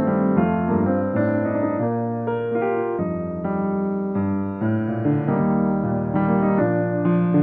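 Solo piano playing a gentle melody over a changing chord accompaniment, notes sustained and overlapping.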